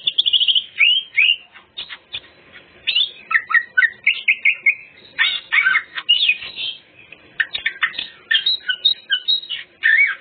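Cucak ijo (green leafbird) singing a dense, varied song of whistles, trills and quick chirps with brief pauses. It is running through its mimicked phrases, its full 'isian' repertoire.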